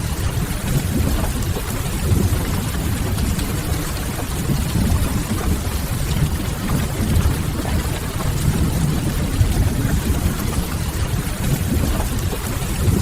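Steady rain with a deep, constant low rumble, mixed with the occasional faint crackle of a wood fire.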